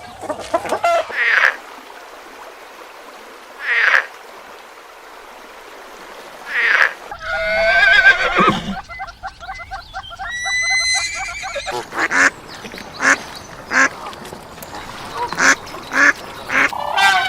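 Ducks quacking: a few spaced-out quacks at first, then a busier run of short quacks close together in the second half.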